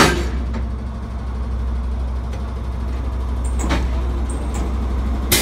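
Diesel multiple unit passing close by, its engine a steady low drone, with a sharp clank at the start and a lighter one about three and a half seconds in. Near the end a loud rushing noise starts suddenly.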